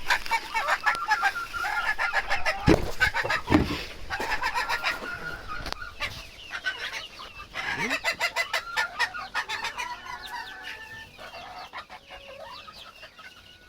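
Young bantam chickens clucking and chirping in a flock, with a rapid run of clicks through the first half. The calls thin out and grow quieter near the end.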